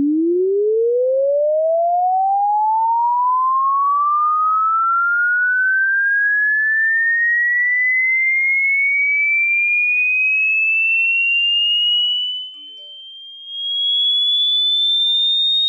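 A pure sine tone sweeping steadily upward in pitch, from a low hum to a high whistle, rising more slowly as it climbs. It is a speaker-cleaning tone meant to shake water out of a phone's speaker. About three-quarters of the way through it drops in level for about a second, then comes back.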